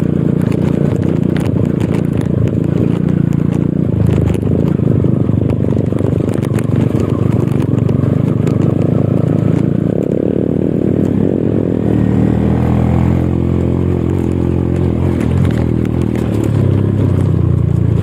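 Off-road motorcycle engine running loud, its pitch shifting up and down in the middle, with scraping and clattering noise.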